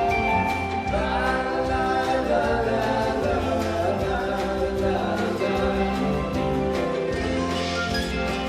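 Live band music, with several voices singing together in harmony over acoustic instruments and a steady bass.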